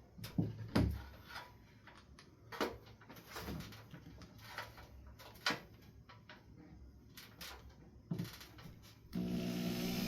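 Scattered light knocks and clicks of hardware and tools being handled, at irregular times. About nine seconds in a steady hum starts and keeps going.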